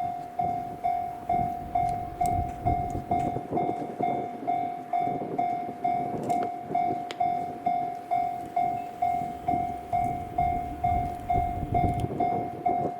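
Japanese railway level-crossing warning bell ringing steadily at about two strokes a second, over the low rumble of a train running past.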